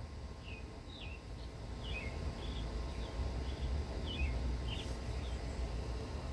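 A bird chirping short, falling notes, about a dozen scattered irregularly, over a low rumble.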